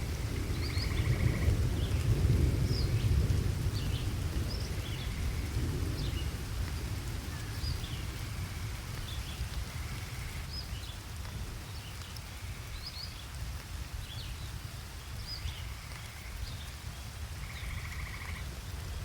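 Steady rain with a low rumble of thunder that swells about two seconds in and fades away over the following seconds. Short high chirps repeat throughout, with a few brief trills among them.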